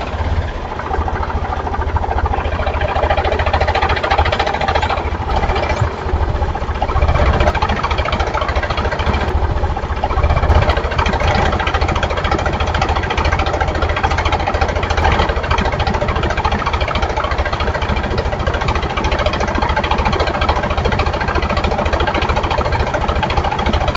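Engine sound typical of a tractor diesel running steadily, with a fast low knocking beat under it.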